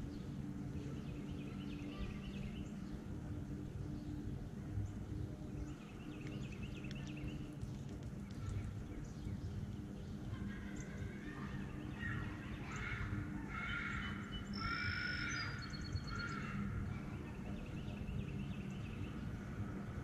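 Wild birds singing and chirping outdoors, with scattered phrases early on and a busier run of chirps and clear high whistles about halfway through, over a low steady hum.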